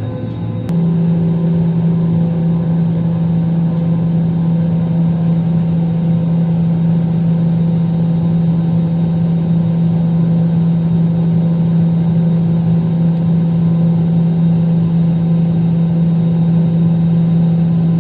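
Steady, loud engine drone heard inside an airplane cabin in flight: a constant low hum with an even rushing noise, starting abruptly about a second in.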